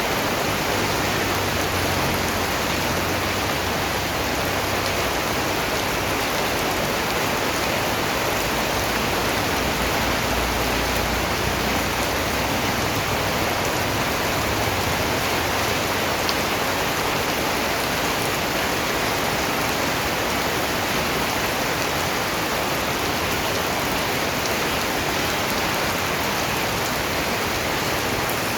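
Steady rain falling, an even hiss of many raindrops that does not change.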